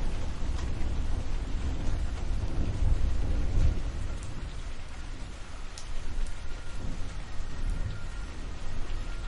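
Thunderstorm: steady rain with a low rolling rumble of thunder that swells to its loudest about three seconds in, then eases off.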